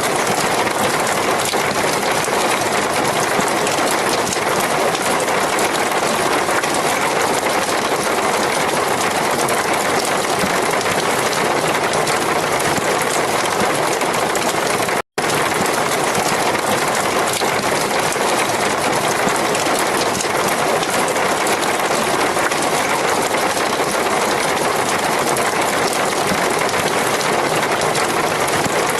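Heavy rain falling steadily, an even hiss with no thunder, that cuts out for an instant about halfway through.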